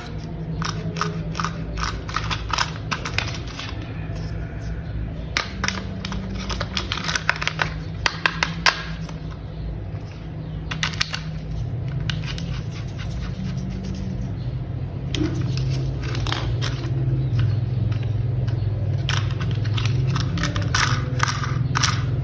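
Hard plastic toy parts being handled and snapped together: a string of sharp clicks and taps in clusters, over a steady low hum that grows louder near the end.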